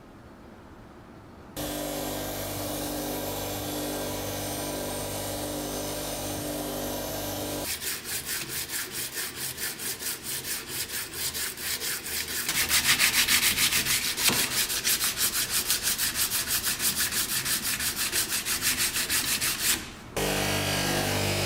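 A small power tool motor runs steadily, then gives way to rapid, even abrasive rubbing strokes on metal, about five a second, as rust is worked off the pliers by sanding or filing. The strokes grow louder partway through, and the motor starts again near the end.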